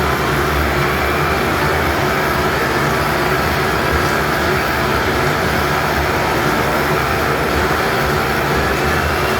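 Three motorcycles riding inside a steel cage, their engines running together in a steady, continuous drone.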